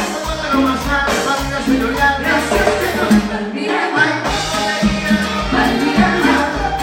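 Live tropical dance orchestra playing Latin dance music, an instrumental passage with percussion keeping a steady beat under the melody.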